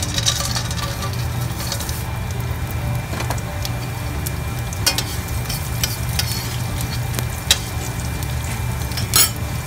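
Oil sizzling in a stainless steel pan as peanuts, urad dal, cumin and mustard seeds fry for a tempering, with a spoon stirring. A few sharp clicks stand out, the loudest near the end.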